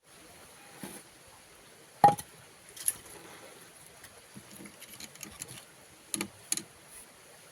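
A few sharp knocks and clacks of objects being handled, the loudest about two seconds in with a brief ring after it, then two more close together near the end.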